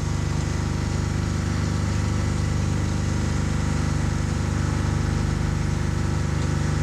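Steady engine drone, holding one even pitch throughout, most likely the yacht's inboard engine running.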